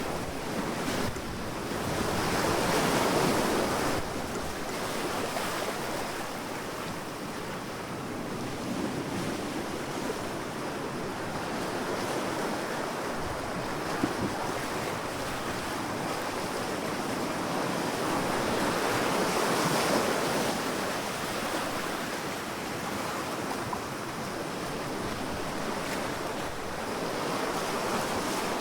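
Sea waves breaking and washing up a sandy beach, the surf swelling and easing over several seconds, loudest about 3 s and 20 s in, with some wind.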